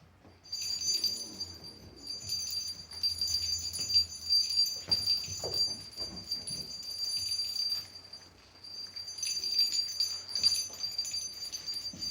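A dog's squeaky toy squeaking over and over as Boxer puppies chew and tug at it: a high, shrill squeal in rapid pulses, in two long stretches broken by a short pause about eight seconds in.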